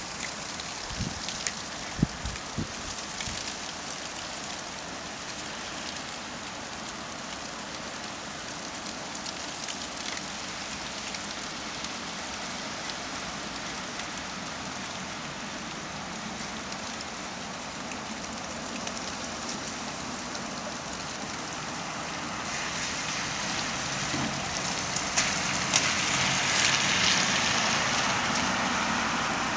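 Steady rain picked up by a camera's built-in microphone, with a few short low knocks in the first few seconds. Over the last several seconds a louder rushing noise swells up over the rain.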